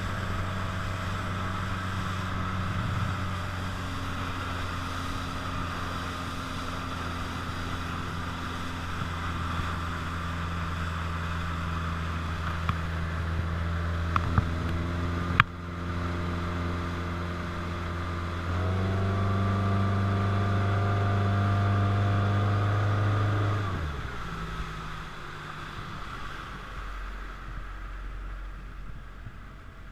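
Motorboat engine running steadily over water and wind hiss. A sharp click comes about halfway, then the engine opens up louder and higher for about five seconds before dropping back to a lower, quieter running note near the end.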